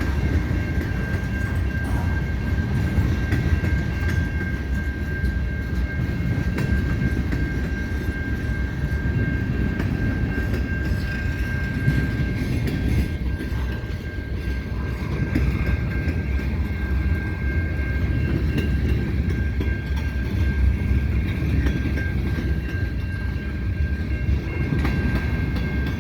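Freight cars of a CN freight train rolling past at a level crossing: a steady low rumble of wheels on rail with small clicks over the joints. A thin, steady high tone runs through it.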